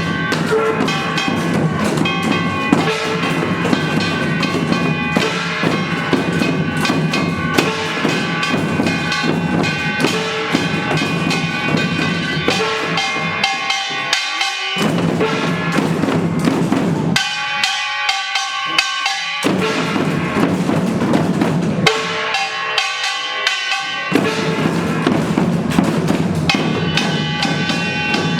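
Samulnori ensemble of Korean traditional percussion played by young children: janggu hourglass drums and buk barrel drums beating a steady rhythm under the clanging and ringing of kkwaenggwari and jing gongs. In the second half the drums drop out three times for a second or two while the gongs play on.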